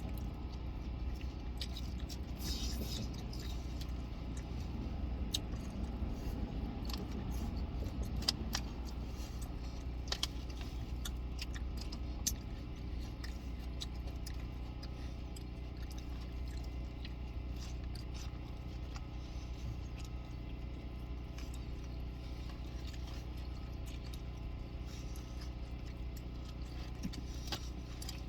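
Steady low hum inside a car, with scattered small clicks, ticks and rustles from handling takeout food containers while eating.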